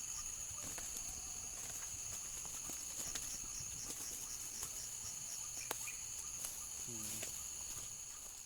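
Steady high-pitched insect chorus trilling without a break, with a few faint clicks and a short low call about seven seconds in.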